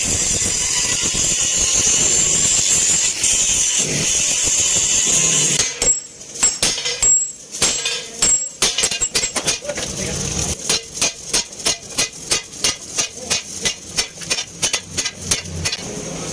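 A hammer striking metal again and again, a few spaced blows at first, then a fast run of about three to four blows a second. A steady hiss fills the first few seconds.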